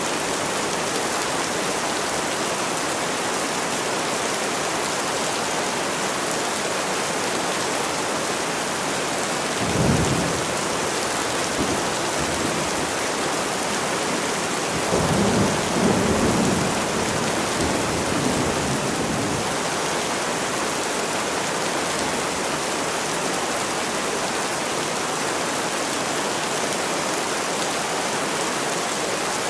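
Steady rain falling, with thunder rumbling low twice: briefly about a third of the way in, and for a few seconds around the middle.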